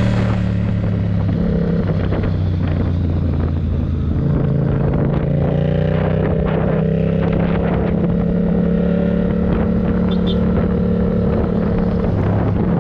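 Yamaha MT-07 parallel-twin engine running under load on the move. Its pitch breaks and resets near the start and again about four seconds in, like gear changes, then holds fairly steady revs.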